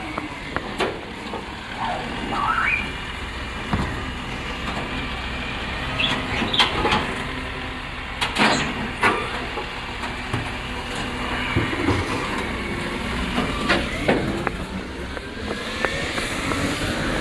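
Waste truck running, with short squeals and several sharp knocks and bangs over a steady low engine rumble.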